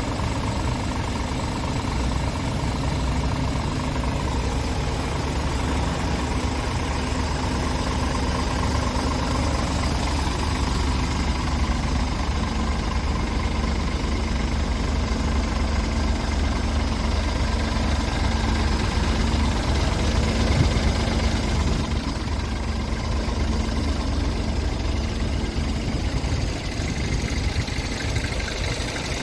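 Scania R410 tractor unit's 13-litre inline-six diesel engine idling steadily.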